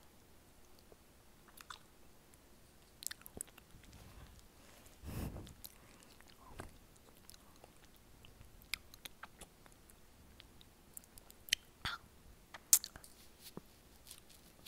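Mouth sounds of someone biting and chewing frozen honey: sparse soft clicks and smacks, with a short louder noisy burst about five seconds in and a sharp click near the end.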